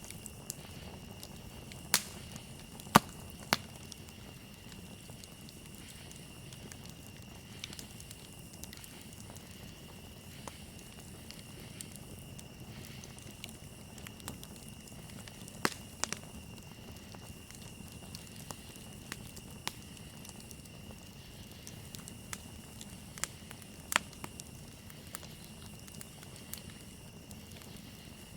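Campfire crackling, with scattered sharp pops (the loudest about two to three seconds in, then around sixteen and twenty-four seconds), over a steady high-pitched trill of crickets.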